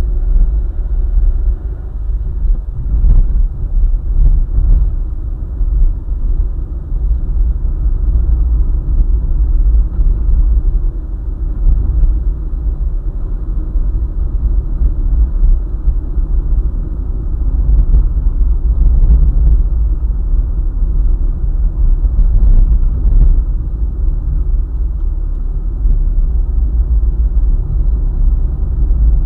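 Car driving steadily along a highway: a steady low rumble of tyres on the road and engine noise.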